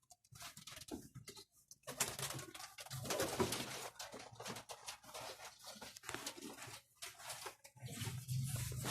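Domestic pigeons moving about in a loft: a busy run of scuffling, rustling and wing flutters, with a faint low coo or two.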